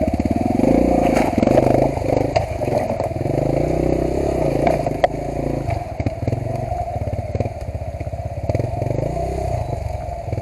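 Motorcycle engine working off-road, its revs rising and falling as it climbs over rocks, with a few sharp knocks and clatter from the bike on the rocks.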